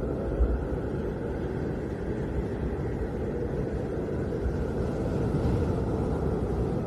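Snowstorm wind blowing steadily as a low, even rush, with deeper rumbling gusts swelling about half a second in and again near the end.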